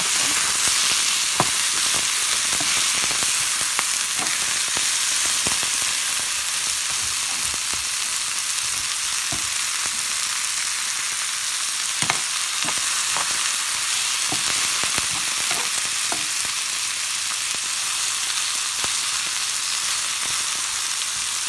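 A whole koi fish (climbing perch) and sliced onions sizzling steadily in hot oil in a pan. Now and then there are sharp clicks and scrapes as a metal spoon stirs and turns them against the pan.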